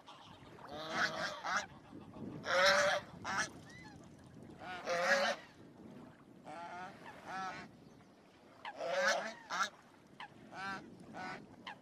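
Ducks on a lake calling, a run of separate loud calls every second or two, about eight in all.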